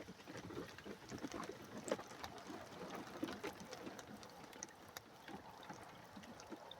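Light rain pattering faintly: small irregular drips over a low hiss, with no thunder.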